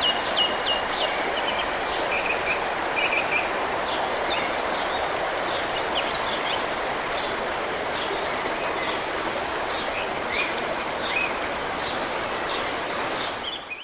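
Birds chirping in many short, quick calls over a steady, hiss-like background noise; the sound fades out near the end.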